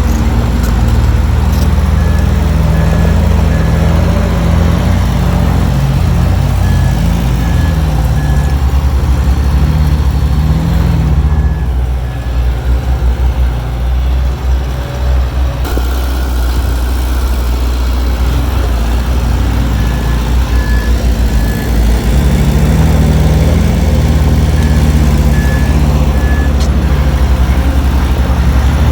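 Heavy diesel earthmoving machinery running loudly under load, with a reversing alarm beeping in short runs every several seconds.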